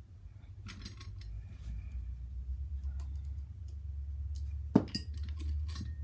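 Small metal parts and tools clinking and rattling as an RC nitro engine is handled and fitted into the chassis, with one sharp knock a little before five seconds in, over a steady low hum.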